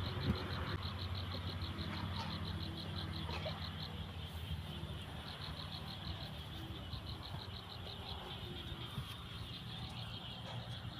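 A rhythmic high-pitched chirping call, about six pulses a second, comes in runs of a few seconds with short breaks, over a steady low hum.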